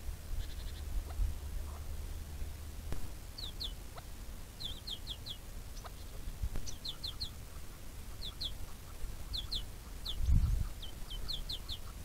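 A bird calling in short, high, falling notes, in quick groups of two to four that repeat about every second, over a steady low rumble. A brief low thump about ten seconds in is the loudest moment.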